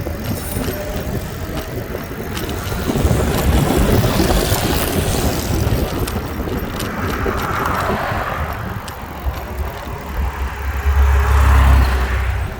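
Road noise while cycling along a street: wind rumbling on the microphone and passing traffic swelling and fading several times, loudest near the end.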